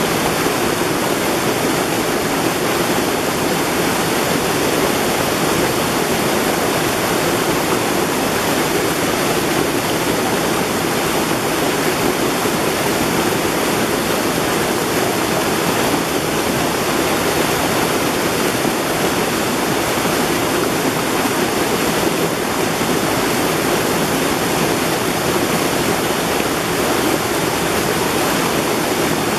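Mountain valley stream rushing steadily: an even, unbroken water noise.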